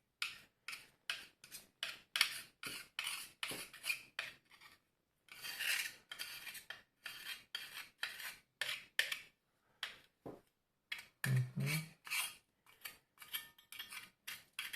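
Repeated short scraping or brushing strokes on the opened iron's parts, about three a second, with two short pauses.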